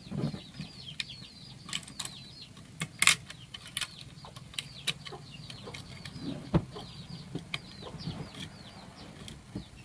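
Small birds chirping over and over in short, high, falling calls, with scattered sharp clicks and a few knocks.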